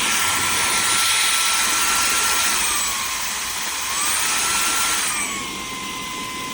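EBOSSOM cordless handheld vacuum running, with a rushing hiss over a high motor whine. The whine drops in pitch about two and a half seconds in, climbs back a second or so later, and drops again near the end.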